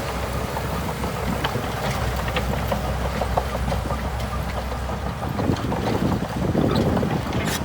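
Shantui DH17C2 bulldozer's diesel engine running, with scattered clanks from the machine and some wind on the microphone. The low steady hum gives way to a rougher, noisier sound about five seconds in.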